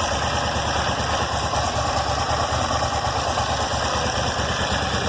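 2005 Aprilia Tuono 1000's V-twin engine idling steadily.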